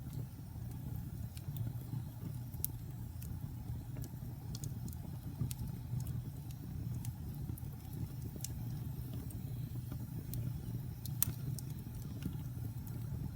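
Wood fire burning in a fireplace: a steady low rumble of the flames with scattered sharp crackles and pops from the burning logs, the loudest pop about eleven seconds in.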